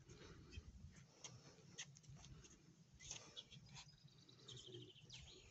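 Faint birdsong: scattered short chirps, with a quick run of repeated notes near the end.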